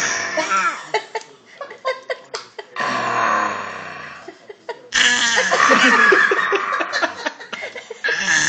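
A baby making loud, raspy screeching noises in three long stretches.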